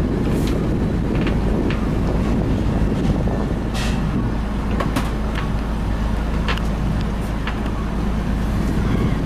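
An engine drones steadily at a constant pitch, with a scatter of short sharp ticks over it.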